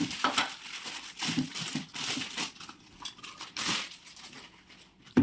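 Packing material from a new mixer grinder's box being crinkled and rustled by hand in irregular bursts.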